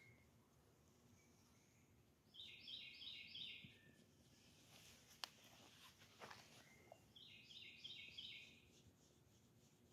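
A songbird singing two short phrases of quick repeated high notes, about five seconds apart, over a faint outdoor background.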